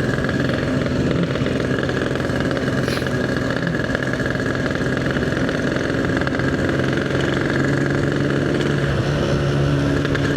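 Yamaha RX-King's 135 cc two-stroke single-cylinder engine running steadily under way at an even cruising speed.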